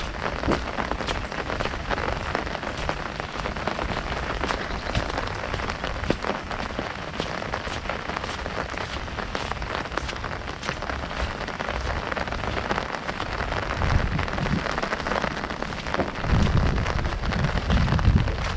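Heavy rain falling on an umbrella canopy overhead, a dense spread of many separate drops hitting it. A low rumble comes in underneath near the end.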